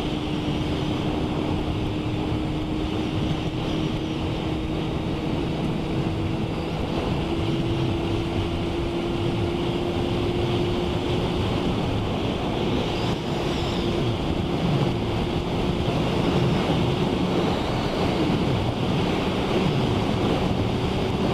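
Motorcycle riding along a wet road: steady wind rush on the microphone and road hiss, with the engine's hum underneath, its pitch creeping slowly up as the bike gathers speed.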